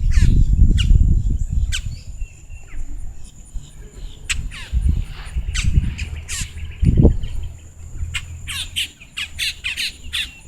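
Many birds calling all around: a chorus of sharp, squawking chirps that sweep downward in pitch and grow busier near the end. A low rumble on the microphone sits under the first couple of seconds.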